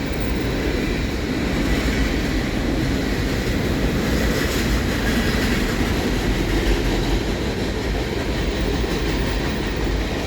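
Freight cars of a CN train rolling past on the main line: a steady, continuous noise of steel wheels on rail as the last cars of the train go by.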